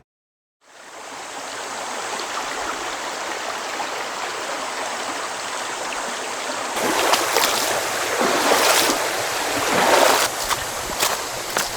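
River water flowing steadily over its bed, fading in after a moment of silence. From about seven seconds in, irregular rustling and sharp knocks sound over the flowing water.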